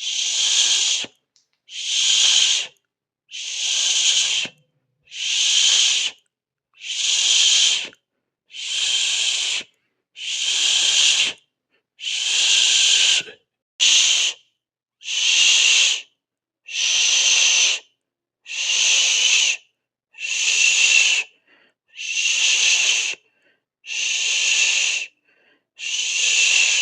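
A person hissing with the mouth, a long steady 'shhh' repeated over and over: about sixteen hisses, each lasting about a second, with short silent breaks between them, roughly one every one and a half to two seconds.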